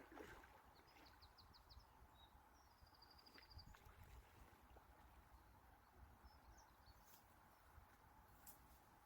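Near silence with faint small-bird calls: a quick run of chirps about a second in and a short trill around three seconds.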